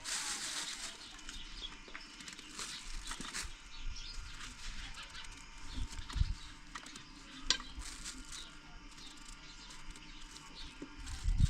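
Outdoor farmyard ambience with faint animal calls, broken by scattered taps and knocks, a low thud about six seconds in and a sharp knock a little later.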